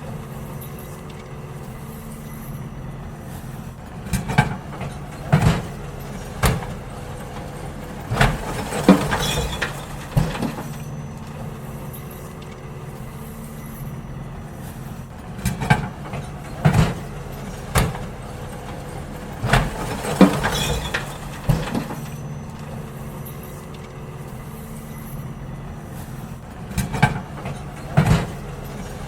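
Garbage truck engine running steadily while bins are emptied, with bursts of loud clanks and bangs every few seconds as the bins are tipped and knocked against the truck.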